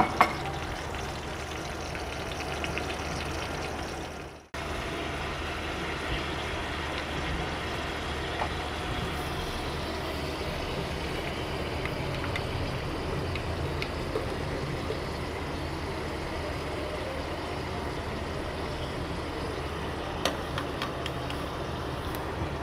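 Chicken pieces and onion frying in oil in a karahi: a steady sizzle over a low, steady hum. The sound cuts out briefly about four and a half seconds in, then resumes.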